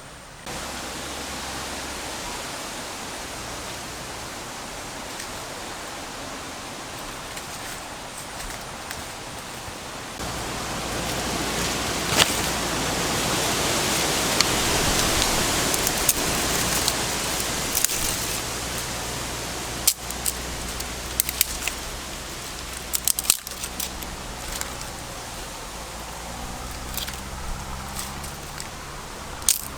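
Food sizzling in hot oil in a pan: a steady hiss that grows louder about ten seconds in, with sharp pops and crackles through the second half.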